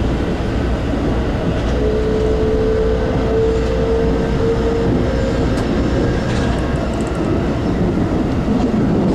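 Keikyu 2100 series electric train running at speed through a tunnel, heard from inside the cab as a steady rumble. A steady whine is held for a few seconds early in the run, and a few faint clicks come near the middle.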